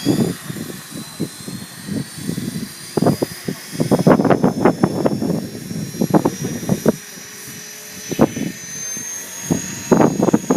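Blade 450 3D electric RC helicopter flying: a thin, high whine from the motor and rotor that climbs slowly in pitch, under gusts of wind buffeting the microphone.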